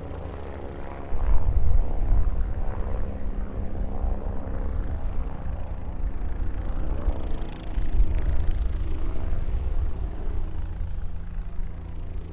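Helicopter engine and rotor noise heard from on board: a steady low drone with noise over it, getting louder about a second in.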